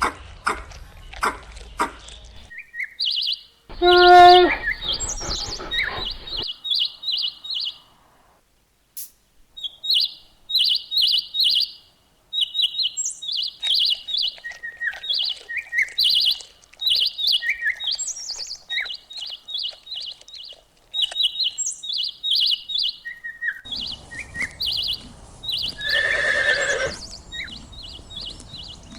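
Small birds chirping in quick, repeated high notes. A single loud pitched call comes about four seconds in, and noisier calls with a steady background rush come near the end.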